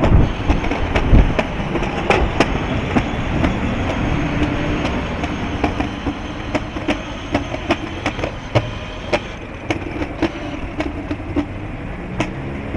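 Strong wind rumbling on the microphone while on the move, with frequent irregular sharp clicks and rattles over it.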